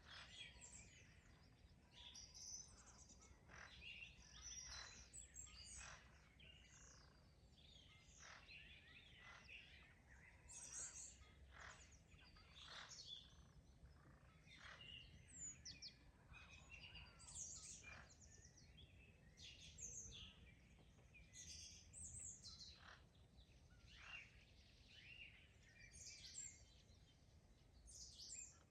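Faint chorus of several songbirds singing, with short chirps and trills overlapping throughout, over a low steady background rumble.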